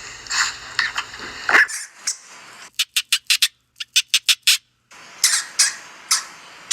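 A dog barking a few times, then after a cut a run of short, rapid, high-pitched chirps and squeaks from a small animal or bird, in quick clusters with brief gaps.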